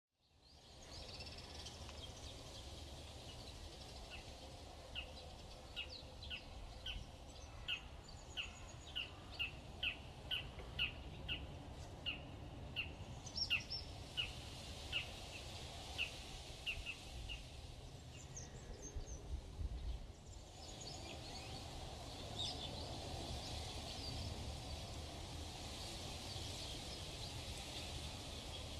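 A parrot chirping in a run of short, high calls, about two a second. After a break, fainter and busier chirping goes on over a steady hiss.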